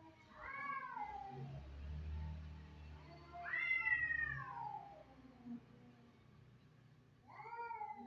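Domestic cat in heat yowling: three long, drawn-out calls, each rising and then falling in pitch, the middle one the loudest and the last starting near the end.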